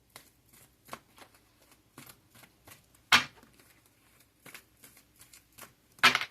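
Cards being shuffled and handled: a run of soft flicks and clicks, with two louder snaps, one about three seconds in and one near the end.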